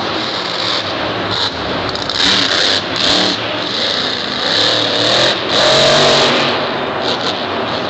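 Monster truck's supercharged V8 revving in several bursts, its pitch rising and falling, over a steady din of background noise.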